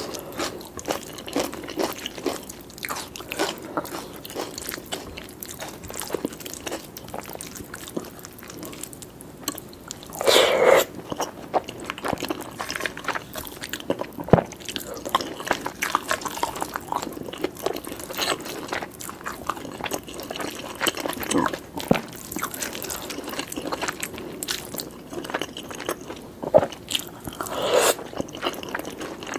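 Close-miked eating sounds: a person chewing and biting food in a steady stream of small crunches and clicks, with two louder mouth sounds, about ten seconds in and near the end.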